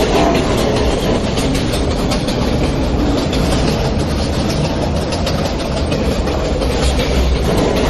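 New York City subway J train running between stations, heard from inside the car: a steady loud rumble of the car with wheels clattering over the rail joints.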